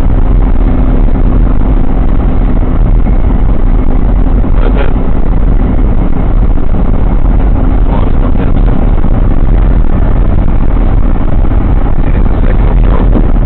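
Steady low rumble of a moving car's road and engine noise, picked up inside the cabin by a dashcam's microphone.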